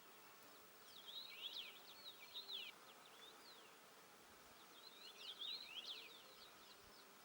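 A small songbird singing faintly: two quick phrases of rapid, high sweeping notes, one about a second in and another about five seconds in.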